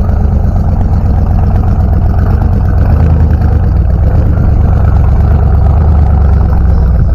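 Car engine running loudly with a deep, rapidly pulsing exhaust rumble, holding steady throughout.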